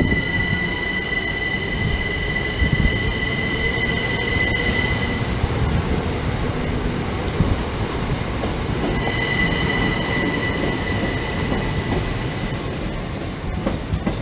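Electric passenger train pulling out of the platform: a steady rumble of the moving train, with a steady high-pitched whine that stops about five seconds in and comes back for a few seconds near the end.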